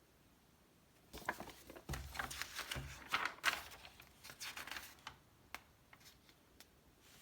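Magazine pages being turned and handled: paper rustling in uneven bursts, with a soft thud about two seconds in, then a few light clicks and taps.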